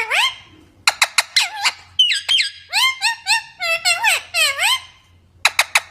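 Parrot calling: rapid squeaky calls that swoop up and down in pitch, in bursts with short gaps, mixed with sharp clicks about a second in and near the end.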